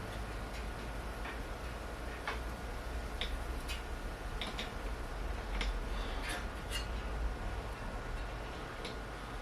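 Scattered light metallic clicks and taps from hand tools working on a car's front hub, irregular rather than rhythmic, over a steady low hum.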